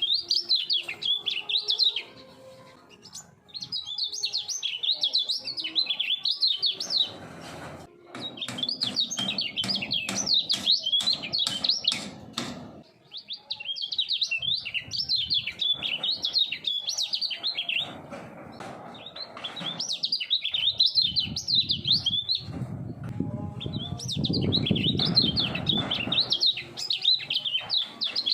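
A kecial kuning (a white-eye songbird) singing fast, high chattering phrases of a few seconds each with short pauses between them. Sharp clicks are heard in the middle.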